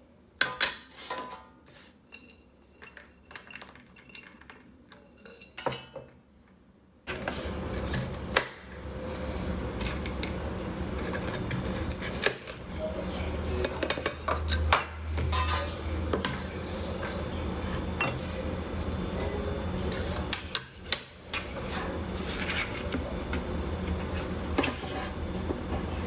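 Kitchen clatter: short clinks and knocks of dishes and cutlery. They are sparse and quiet at first; about seven seconds in they continue more densely over a steady low hum.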